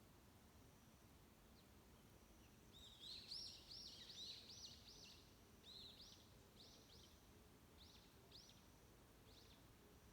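A wild songbird singing a fast run of short, arched high notes, starting about three seconds in, loudest at first, then slowing to spaced single notes and fading, over faint steady forest background hiss.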